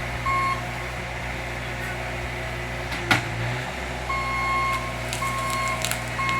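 Heavy work vehicle's engine running steadily while its reversing alarm sounds in short beeps of a single pitch: one near the start, then a steady run of about one a second from about four seconds in. A single sharp knock about three seconds in.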